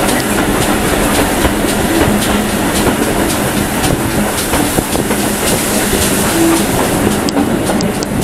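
Train running along the track, heard from a carriage, with wheels clicking over the rails and a steady hum underneath.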